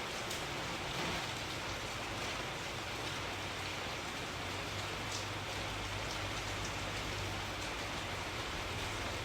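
Steady rain falling, with scattered individual drops ticking, over a faint low hum.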